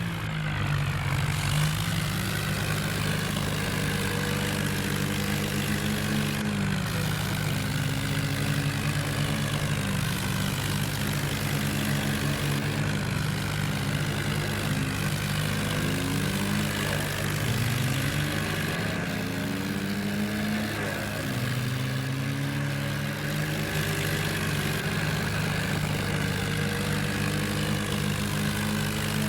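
Ford 3600 and Mahindra 265 tractor engines running hard under a heavy pulling load. Their engine speed rises and falls again and again as they labour.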